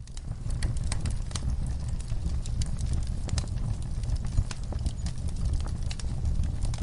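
Outdoor wood fire crackling, with constant sharp pops and snaps over a steady low rumble of the flames. One pop stands out louder, a little past the middle.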